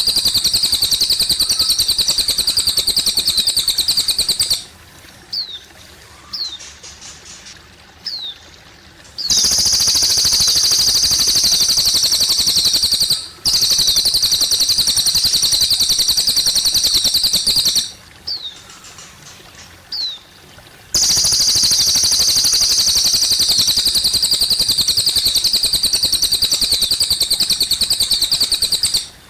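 A cililin bird singing long, rapid, high-pitched trills of several seconds each, four in all, with short pauses between them in which a few brief falling chirps sound. Faint trickling water runs underneath.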